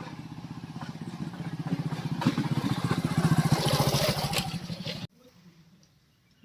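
An engine running with a fast, even beat, growing louder over about four seconds, then cut off abruptly about five seconds in.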